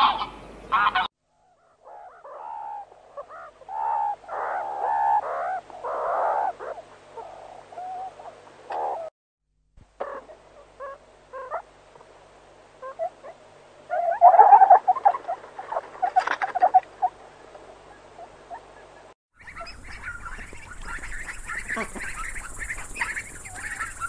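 A string of animal calls in separate clips. A domestic goose honks briefly at the start. Then come other animal calls and ring-tailed lemurs calling, loudest in a cluster around two-thirds of the way through. At the end a huddle of ducklings peeps rapidly and continuously.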